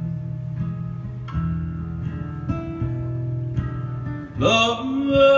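Acoustic guitar playing a slow instrumental passage of picked notes and chords, with a new note struck every second or so. Near the end a held, pitched sound glides in and carries on.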